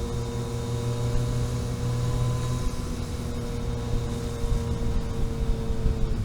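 Vehicle engine running at steady revs under road and wind noise as it drives along a mountain road. The engine note changes slightly near the end.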